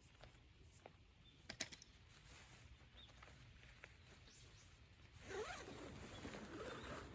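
A few faint clicks and a sharp double click, then a zipper being drawn with a rasping buzz for about two seconds near the end.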